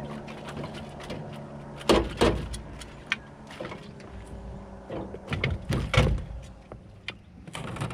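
Irregular knocks and thumps in a small boat as a freshly caught flathead is handled and laid out for measuring. A steady low hum underneath stops at the first loud knock, about two seconds in.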